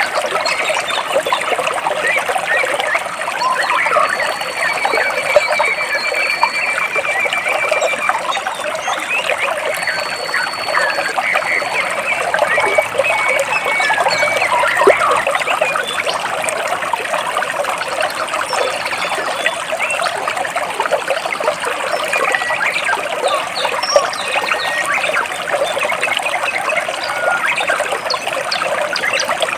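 Water trickling and splashing steadily between large rocks, with a few high, thin bird calls over it.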